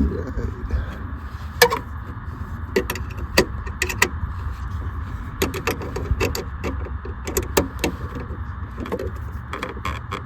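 Irregular metallic clicks and clinks of a bolt and hand tools against a CB radio's metal mounting bracket as it is fastened, over a steady low hum.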